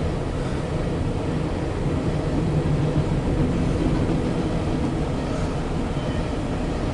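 Empty coal train rolling past: a steady rumble of steel wheels on rail, swelling slightly in the middle.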